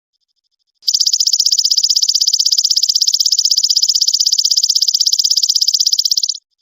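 A songbird's very fast, even, high-pitched trill, held for about five and a half seconds, starting and stopping abruptly, with a fainter trill of the same kind just before and after it.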